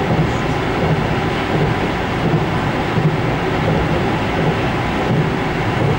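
Passenger train running at speed, heard from inside the carriage: a steady rumble and rattle of the wheels on the track, with a low beat about three times every two seconds.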